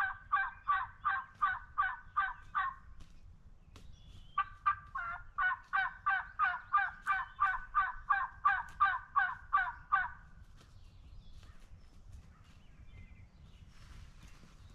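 Turkey yelping: two long runs of evenly spaced yelps, about four a second, the first stopping about three seconds in and the second running from about four and a half seconds to about ten seconds in. Faint scattered ticks and rustling follow.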